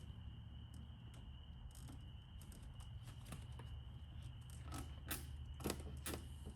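Scattered light clicks and knocks of cable ties and engine-bay parts being handled and fastened, a few sharper ones over the last couple of seconds. Underneath runs a faint steady high-pitched tone and a low hum.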